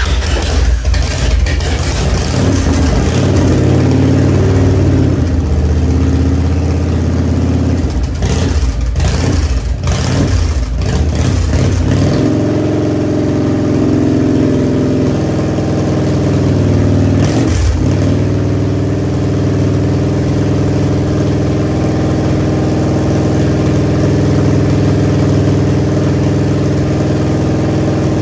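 1994 Harley-Davidson Heritage Softail Nostalgia's Evo V-twin, through Samson exhaust, catching and running: uneven at first with several throttle blips around eight to eleven seconds in, then settling into a steady idle from about twelve seconds, with one quick blip a few seconds later.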